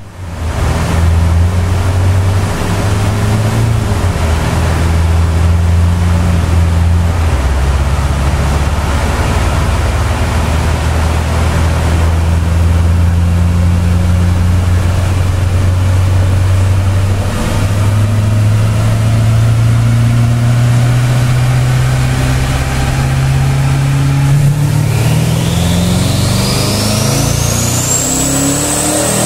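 Twin-turbocharged 2011 Camaro engine on a chassis dyno, running at a steady speed and then pulling hard with its pitch climbing from about halfway through. A high turbo whistle rises sharply in the last few seconds as the turbos spool up under full load.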